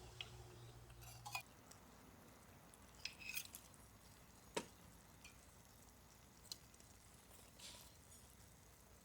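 Quiet, scattered light clinks and taps of dishes and cooking utensils, with one sharper knock about four and a half seconds in. A low steady hum cuts off about a second and a half in.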